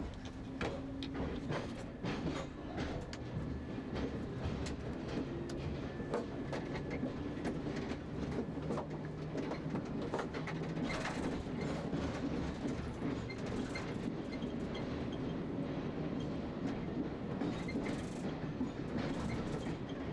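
London Underground Metropolitan line A Stock electric train running over the track, heard from the driver's cab: a steady rumble with motor hum and frequent clicks and clacks of the wheels over rail joints and pointwork.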